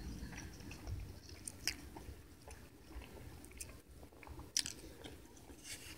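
A person chewing a mouthful of chicken sausage hot dog in a soft bun close to the microphone, faint, with scattered soft mouth clicks.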